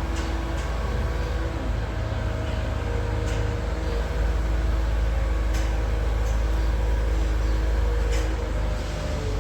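Tractor engine running steadily with a deep rumble and a steady hum, a few light clicks over it.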